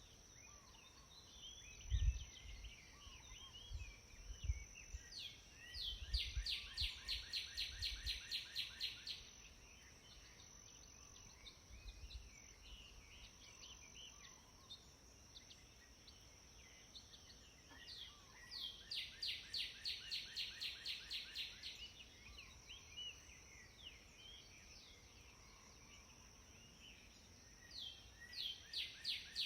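Outdoor birdsong: one bird repeats a fast, even trill of about four or five notes a second, each run lasting about three seconds, three times about ten seconds apart, while other birds chirp softly and a steady high hiss runs underneath. A few low thumps come in the first several seconds.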